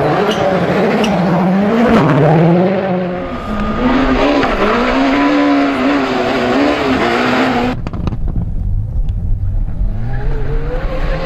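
Rally car engine at full throttle, its pitch climbing and dropping again and again through gear changes and lifts. About eight seconds in, the sound cuts abruptly to a duller, more distant engine that rises again near the end.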